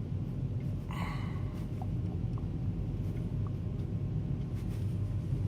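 Car engine and road noise as a steady low rumble heard inside the moving car's cabin, with a brief higher sound about a second in.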